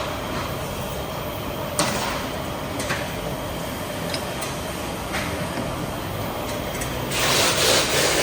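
Workshop sounds from work on a scooter wheel over a steady low rumble: a few sharp tool clicks, then about a second of loud hiss near the end.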